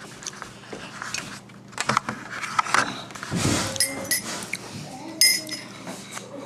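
Tableware clinking and knocking, with two bright ringing clinks about four and five seconds in.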